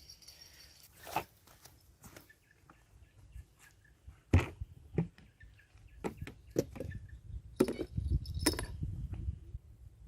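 Irregular knocks, clicks and steps as an angler moves about and handles fishing gear to change the bait, the sharpest knock about four seconds in and a cluster near the end, over faint high chirping.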